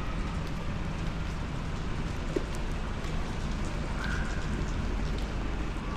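Steady rain on a wet city street, an even hiss of falling drops under a constant low rumble.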